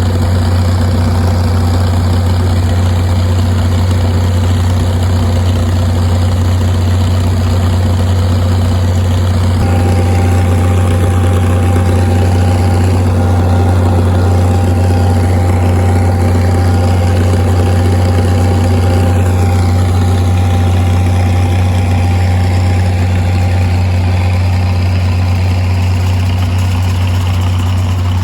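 Tractor diesel engine running at a steady speed, heard close up, with a faint steady whine joining about ten seconds in.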